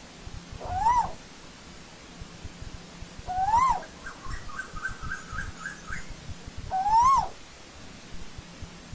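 Asian koel calling: three single whistled notes about three seconds apart, each rising and then dropping sharply, with a faint quick run of short notes between the second and third.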